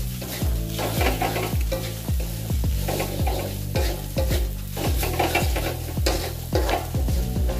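Fried noodles with beef sizzling in a hot pan while a spatula stirs and scrapes them, over background music with a steady beat.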